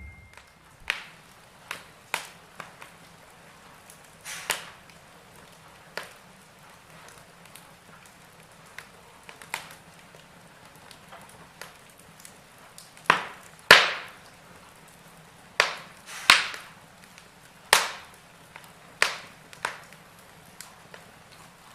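Wood fire crackling in a fireplace: irregular sharp pops and snaps over a soft hiss, with a run of louder pops past the middle.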